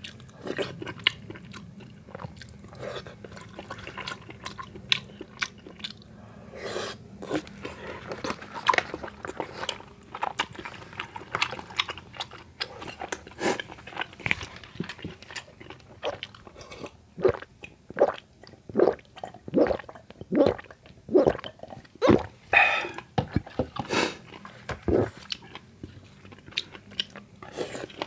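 Close-miked chewing of tteokbokki rice cakes and fried snacks: wet, chewy mouth sounds with crunches. In the second half the chews come louder and steady, about one and a half a second.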